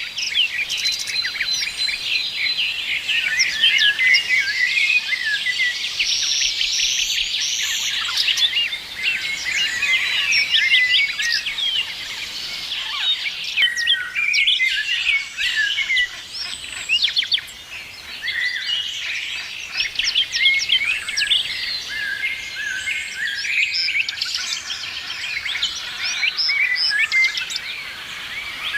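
Many songbirds chirping and trilling at once in a dense, continuous chorus of short high calls.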